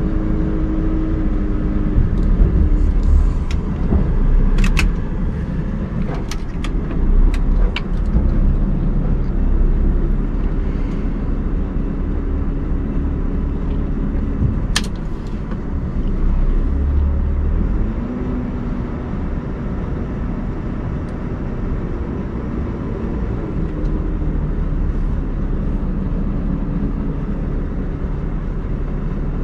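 Scania R580's V8 diesel engine running under load, its pitch shifting now and then. Several sharp clicks or knocks come between about three and eight seconds in, and one more near fifteen seconds.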